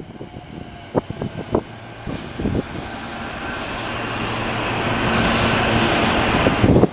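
SEPTA Silverliner V electric commuter train rolling past on the rails: a steady low hum under wheel and running noise that grows steadily louder. A few sharp clicks come about a second in, and a short loud burst of noise at the very end.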